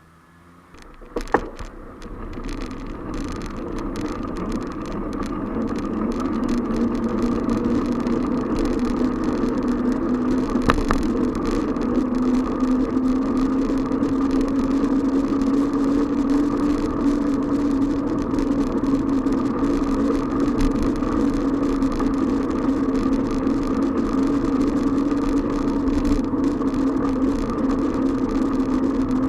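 Riding noise of a moving bicycle picked up by a recorder on the bike: a steady rush that builds over the first few seconds as it gets up to speed, with a low hum that creeps slightly higher in pitch. A single click comes about a second in.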